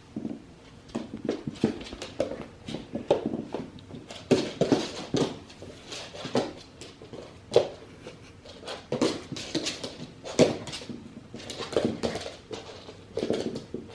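A young labradoodle puppy making a string of short, irregular little noises, one or two a second.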